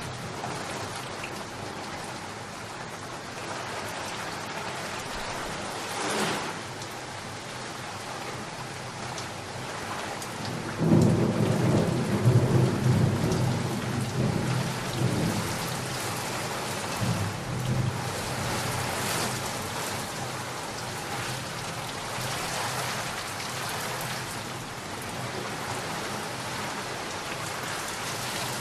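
Steady rain falling, with a clap of thunder breaking suddenly about a third of the way in. Its deep rumble rolls on for several seconds and swells once more before fading back under the rain.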